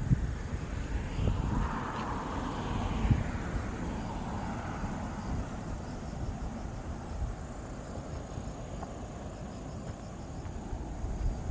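Outdoor ambience: a low wind rumble, a steady high insect drone, and a broad rushing swell that builds and fades over the first few seconds.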